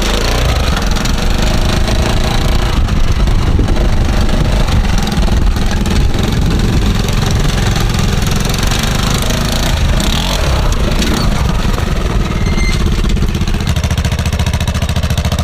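Honda 400EX quad's single-cylinder four-stroke engine running loud through a homemade rigged exhaust, with a brief change in pitch about ten seconds in.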